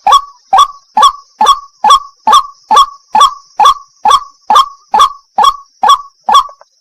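White-breasted waterhen (wak-wak) calling: a loud 'wak' note repeated evenly about twice a second, some fifteen times, stopping near the end. A steady high hiss runs beneath the calls and stops with them.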